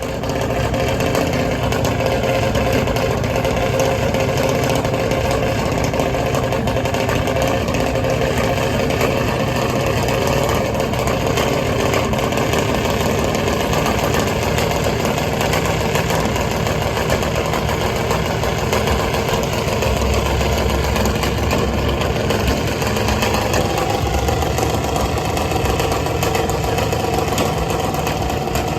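Car engine idling loudly and steadily, with a deeper low rumble coming in about twenty seconds in.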